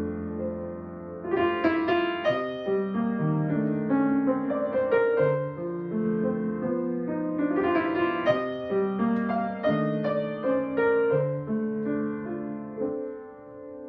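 Solo piano playing a slow, gentle piece of chords and melody.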